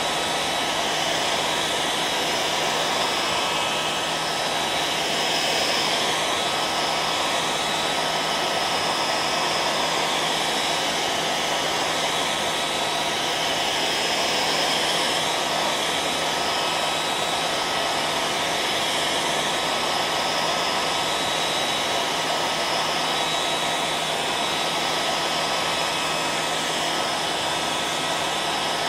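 Electric hairdryer running continuously at a constant setting: a steady rush of blown air with a steady motor whine and hum.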